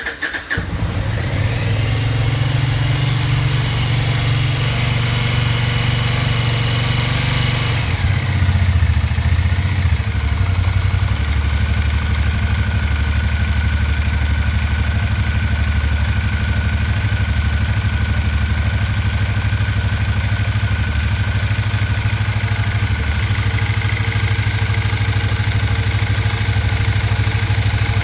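2007 Triumph Speedmaster's parallel-twin engine idling fast on choke just after a cold start, then settling to a slower, lower idle about eight seconds in.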